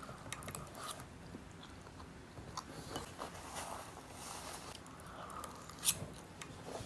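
Close-up chewing of chicken, broccoli and carrot Alfredo pasta: soft wet mouth sounds with small scattered clicks. A sharper click about six seconds in is the loudest sound.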